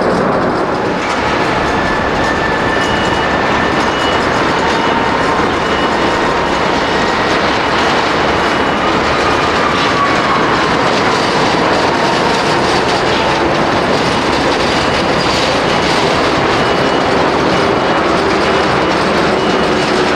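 Jet airliner engines, a loud steady rushing noise with a faint whine that rises and falls in pitch around the middle.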